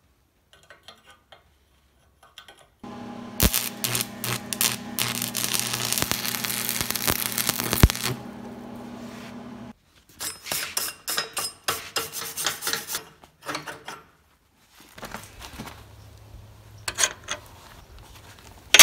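An electric power tool starts about three seconds in and runs for about seven seconds, with harsh grinding against steel through the middle, then stops. Irregular metallic clicks and taps follow, then a lower hum with scattered clicks near the end.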